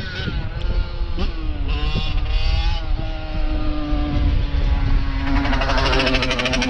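Jet engines of an Airbus A321neo airliner running with a steady tone, then rising in loudness and pitch from about five seconds in as they spool up toward takeoff power. Heavy wind rumble on the microphone underneath.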